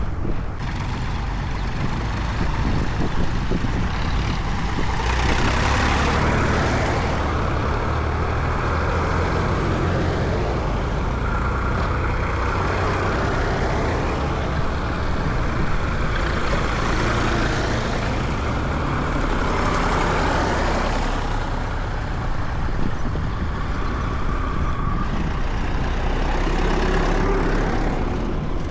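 Tractor engines running on a road: a steady low engine note with broad road noise that swells twice, about six seconds in and again around twenty seconds.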